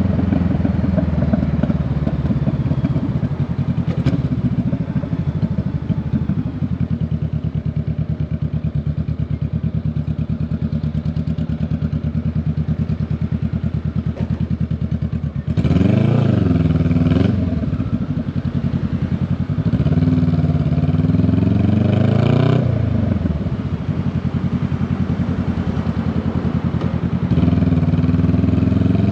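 Honda Rebel 500's parallel-twin engine and exhaust heard from the rider's seat, running steadily while riding, then revving up and back down in surges of acceleration about halfway through, again a few seconds later, and once more near the end.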